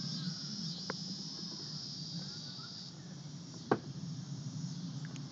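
Steady high-pitched insect chorus trilling, with two sharp clicks, one about a second in and a louder one near four seconds in.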